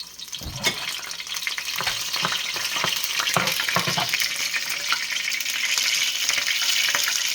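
Hot cooking oil sizzling in a pan as food fries. The sizzle builds over the first couple of seconds and then runs steadily, with a few knocks from handling in the first half.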